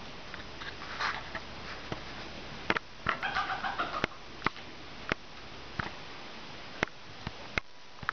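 A bird gives a short call a few times, loudest about three seconds in, over a steady low hiss. Sharp, irregular clicks come every half second to a second, and the loudest of them are louder than the call.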